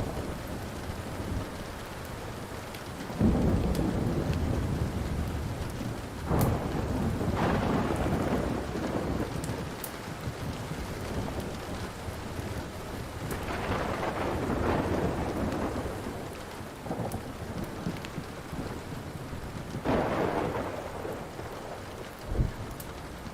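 Steady rain with thunder rolling in several times, each roll swelling and fading over a few seconds. A few sharp pops from a crackling wood fire sound over it.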